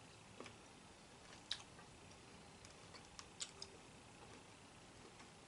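Quiet eating of a crab claw: about six short, sharp clicks and cracks of shell and chewing over low room tone, the loudest about a second and a half in and several bunched together past the middle.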